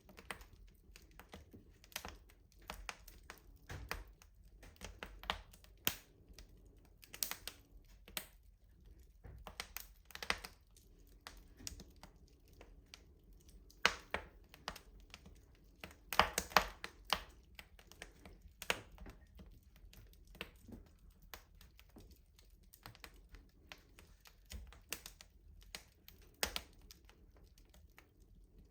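Wood fire crackling in a rustic stove: irregular sharp pops and snaps, with a quick cluster of louder pops about sixteen seconds in.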